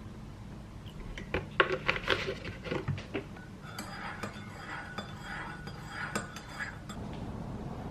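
Cutlery and dishes clinking and clattering: a quick run of sharp clinks in the first few seconds, then softer scraping and light clinks.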